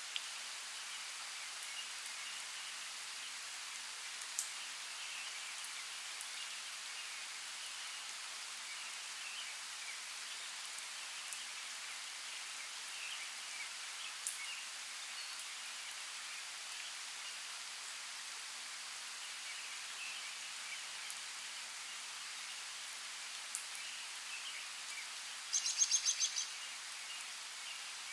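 Forest ambience: a steady soft hiss with faint bird chirps scattered through it and a few sharp ticks. Near the end a bird gives a quick rattling run of about eight high notes in roughly a second.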